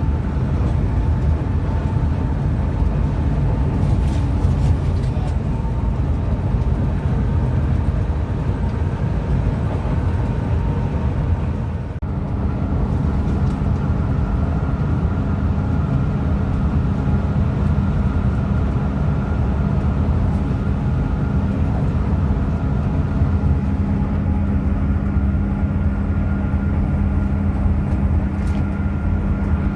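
Hino RM 280 coach engine and road noise, a steady low drone while the bus is under way. About twelve seconds in the sound dips briefly, then settles on a different steady engine note.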